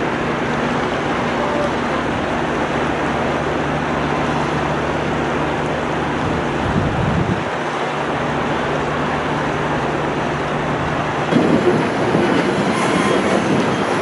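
Passenger train running along the track, heard from aboard: a steady rumble of wheels on rails with a low hum underneath, growing louder and rougher about eleven seconds in.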